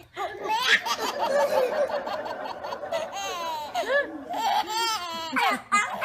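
High-pitched human laughter in quick repeated bursts, with several voices overlapping for a moment about a second in.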